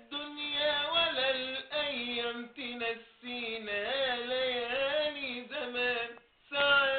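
A man singing an Egyptian pop song unaccompanied, in long held phrases with a wavering pitch, broken by short breaths.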